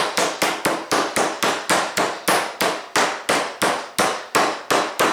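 Meat pounder's flat side beating a chicken breast under cling film, a steady run of banging blows about three to four a second, flattening the cutlet to about half an inch thick.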